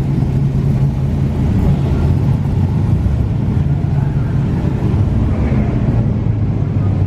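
A car engine running steadily, a low constant tone that drops slightly in pitch about six seconds in.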